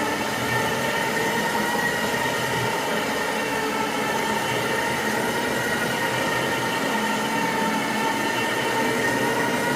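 Carpet-cleaning extraction machine running steadily, its vacuum motor giving a constant high whine over a rushing noise.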